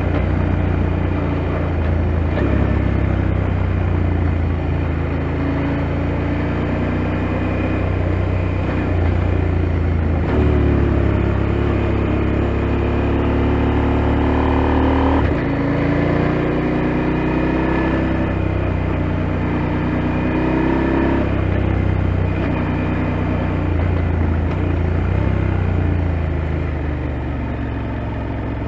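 KTM 890 Adventure's parallel-twin engine pulling under way, its pitch climbing with the revs and dropping sharply at gear changes about a third and about halfway through.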